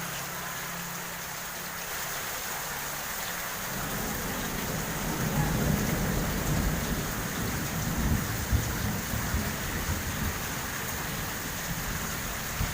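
Heavy tropical downpour, rain hissing steadily on the street and on nearby surfaces. A low, uneven rumble joins in about four seconds in and continues under the rain.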